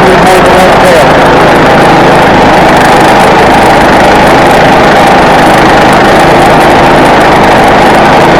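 The log mill's small engine running loudly and steadily, with no change in speed.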